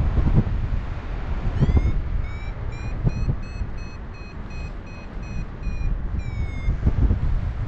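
Paragliding variometer beeping over wind buffeting the microphone. It gives a quick rising chirp, then a run of short beeps about three a second, then a falling tone near the end. The beeping is the vario's signal that the glider is climbing in lift.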